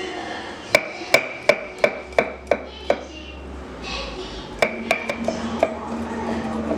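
A knife chopping on a cutting board, about three sharp strokes a second in two runs with a short pause between them.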